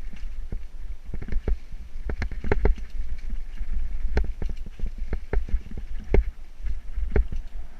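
Mountain bike clattering over a rough trail: irregular knocks and rattles, several a second, over a low wind rumble on the microphone.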